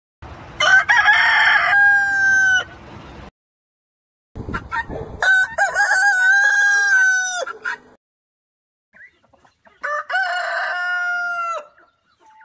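Rooster crowing three times, each crow a long held call that drops off at the end, with short silent gaps between them.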